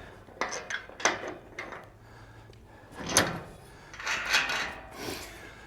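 A metal farm gate being handled onto its welded hinge pins: irregular clanks, knocks and scrapes of metal on metal.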